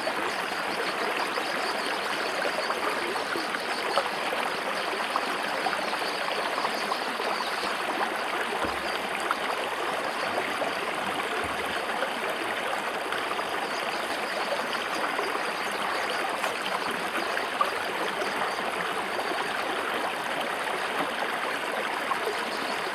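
River water flowing steadily over rocks, an even, unbroken rush.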